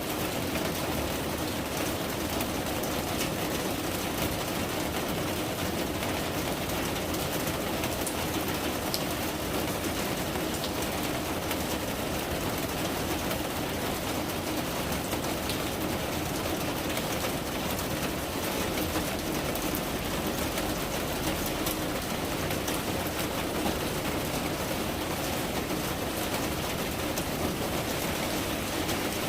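Steady rain falling, an even hiss of countless drops with fine scattered ticks.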